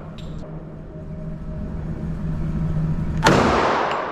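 A single gunshot about three seconds in, with a long reverberant tail off the walls of an indoor shooting range, over a steady low hum.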